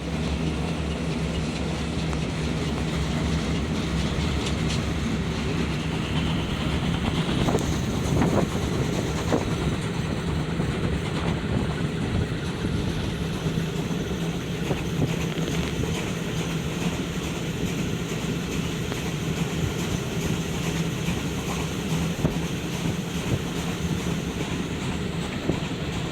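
Historic train running at a steady pace: a continuous rumble and hum of the moving train, with scattered clicks of the wheels over rail joints, bunched about eight to nine seconds in.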